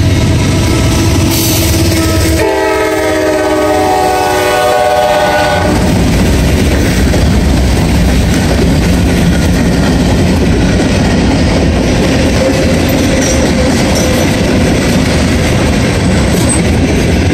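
Diesel freight locomotive sounding its horn as it passes, the horn chord stopping about six seconds in; then the steady rumble and clatter of the freight cars' wheels rolling past over the rail joints.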